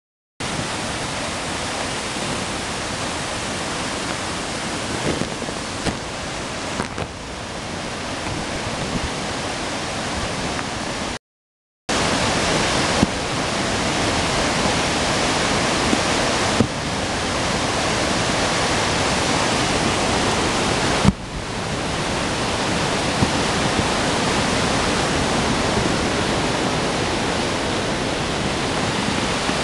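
Rain falling in a dense, steady hiss, broken by a sudden short dropout about eleven seconds in. A few sharp clicks stand out above it.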